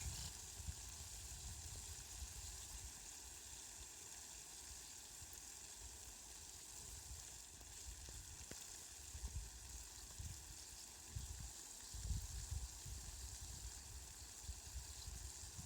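Rain falling steadily, an even hiss, with low rumbles coming and going, most around the middle and two-thirds of the way through.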